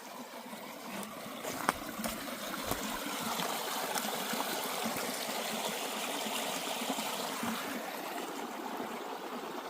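Shallow water trickling and running steadily in a forest canal at a beaver dam, growing a little louder over the first few seconds, with one sharp click about two seconds in.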